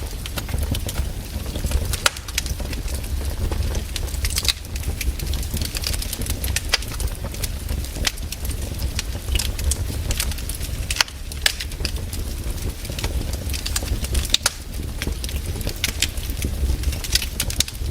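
Wood fire in a fireplace crackling, with frequent sharp pops and snaps at irregular intervals over a steady low rumble.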